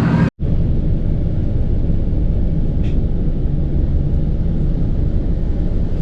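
Steady low rumble of a vehicle in motion. It starts after a brief break just after the beginning.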